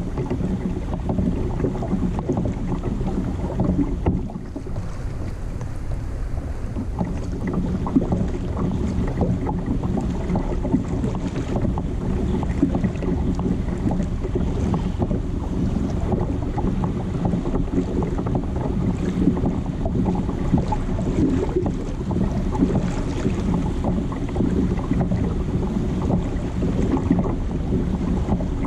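Wind buffeting the microphone on open water, a dense steady rumble, with a faint steady low hum underneath.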